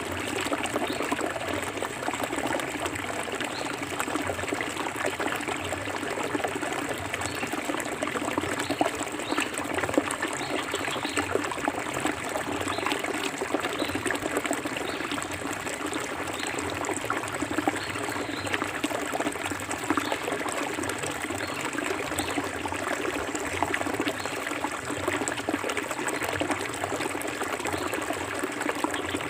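Forest river flowing steadily, a continuous babble of small splashes and trickles.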